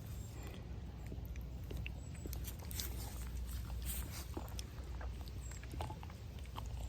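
Faint scattered clicks and rustles of farm animals moving about close by, over a steady low rumble.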